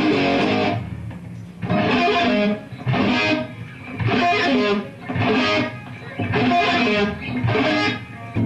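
Electric guitar music: loud strummed chords coming in short bursts about once a second, with brief drops between them.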